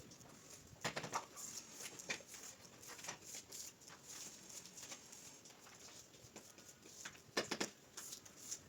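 Scattered light knocks and scraping clatter from hand work on tile, loudest about a second in and again near the end.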